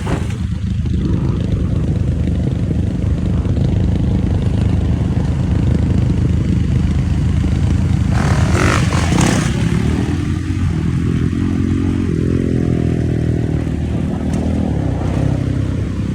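Dirt bike engine running, with its pitch rising and falling through the revs in the second half and a brief rush of noise about eight seconds in.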